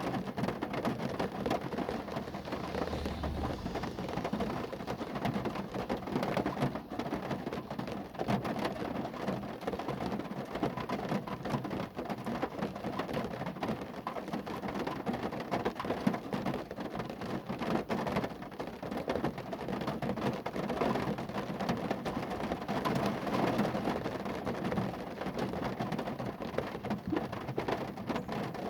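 Steady rain falling on a car, a dense, even patter of drops on the car's body.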